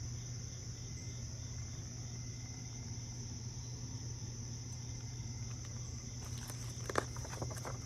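Steady high-pitched background drone over a low steady hum, with a few short clicks near the end.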